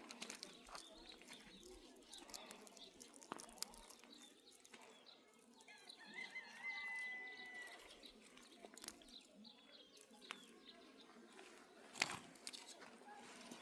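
Faint outdoor farmyard ambience: scattered small clicks, a short steady whistle-like call about six seconds in, and one sharp knock near the end.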